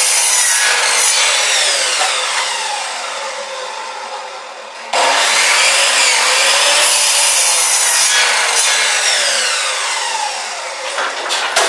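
Power chop saw cutting wood. The motor winds down with a falling whine, is started again about five seconds in, and winds down once more. A few sharp clicks come near the end.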